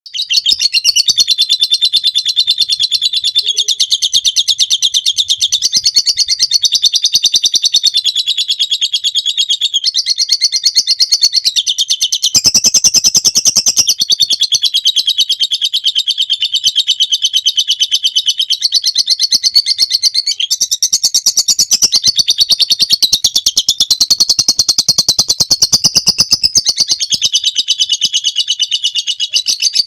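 Lovebird in a long 'ngekek': a fast, high-pitched chattering trill that goes on without pause, shifting pitch every few seconds.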